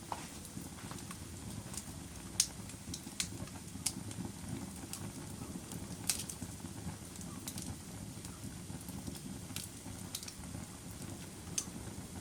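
Wood fire burning in a fireplace: a steady low rumble of flames with about a dozen sharp crackles and pops at irregular intervals.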